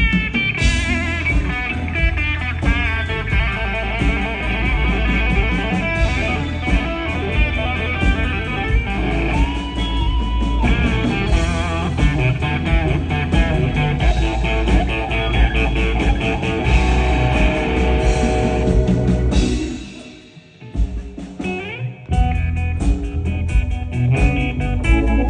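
Electric blues played with a lead guitar over a heavy low end. About twenty seconds in the music drops away for a moment, then comes back in.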